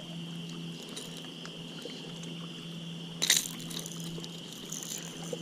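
Steady insect chirring in a high, even tone over a low steady hum, with one short sharp sound a little past three seconds in.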